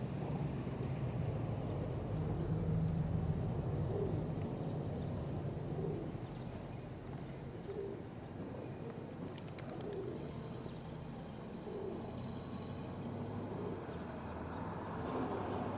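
Feral pigeons cooing, short low calls repeating every second or two, over a steady low rumble.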